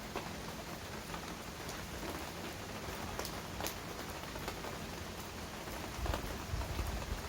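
Heavy rain falling steadily, with individual drops striking a nearby surface in sharp ticks. A low rumble comes in near the end.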